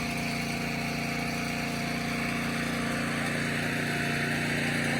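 Engine running steadily at an even idle, with a faint hiss above it, growing slightly louder.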